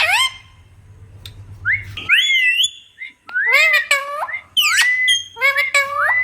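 Pet green parrot whistling: a series of about five short, gliding, mostly rising whistles, with a gap of about a second after the first.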